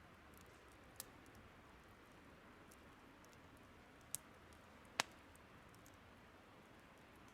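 Burning firewood crackling: three sharp pops over a steady faint hiss, the loudest about five seconds in.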